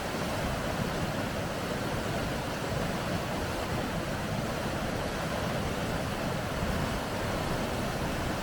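Steady rushing of water over rapids: an even, unbroken noise with no change in level.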